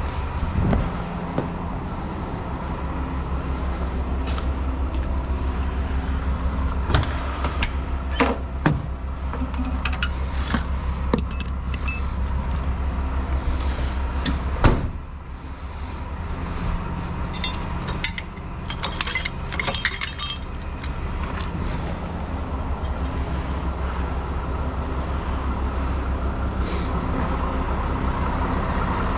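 Heavy truck engine running with a steady low drone. Metallic clinks and rattles are scattered through it, with one loud knock about fifteen seconds in and a cluster of jingling clinks a few seconds later.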